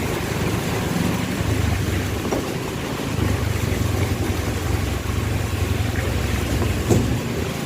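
Outdoor street ambience: a steady low rumble with a haze of noise, and a single knock near the end.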